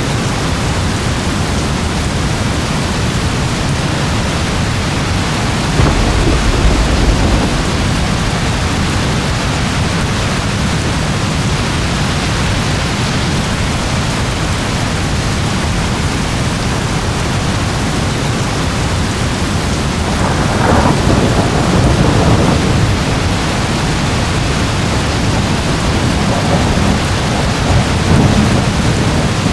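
Steady rain with rolls of thunder: a deep rumble about six seconds in, a longer, louder peal about two-thirds of the way through, and smaller rumbles near the end.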